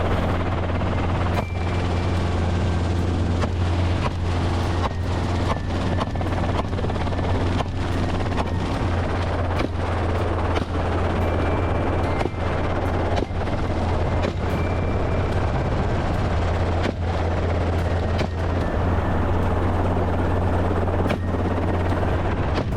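Helicopter in flight, its rotor and engine making a steady, loud drone.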